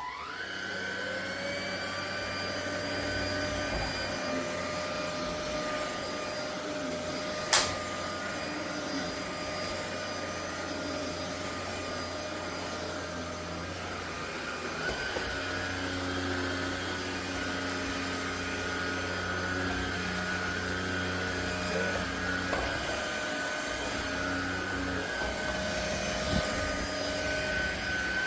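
ElecKeys K10 cordless stick vacuum motor spinning up to a steady whine, then running. There is a single sharp click about a quarter of the way through, and the lower tones of the hum shift about halfway.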